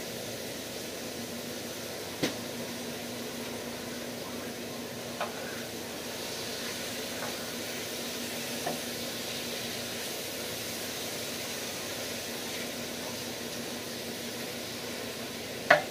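Food sizzling steadily in a hot electric skillet while greens are stirred in with a wooden spatula. A few sharp knocks of the spatula against the pan come through, with two close together near the end.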